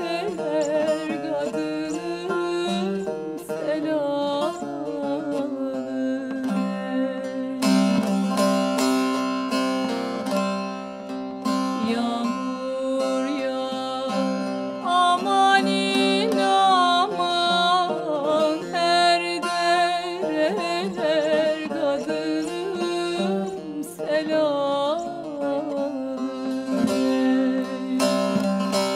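Turkish folk song performed with plucked-string accompaniment and a wavering, ornamented melody line over a steady drone.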